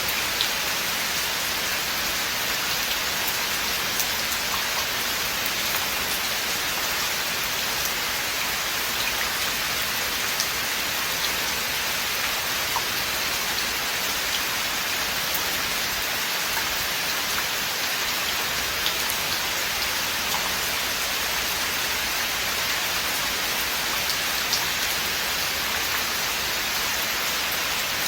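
Steady rain falling in a forest, an even hiss of drops on leaves and ground with occasional sharper single drop ticks.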